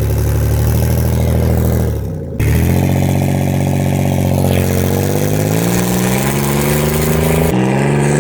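Turbocharged V6 of a 1996 Pontiac Transport minivan under hard throttle. It holds a steady note for about two seconds, then after an abrupt break it climbs steadily in pitch as it accelerates. Near the end there is another abrupt break and the pitch rises again.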